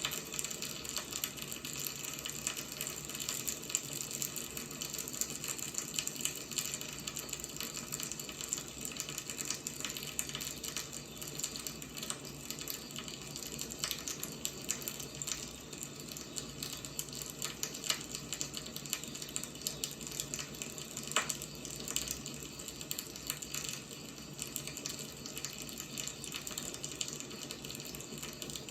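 Wood fire burning with dense, irregular crackling and popping over a steady hiss, one sharper crack about two-thirds of the way through.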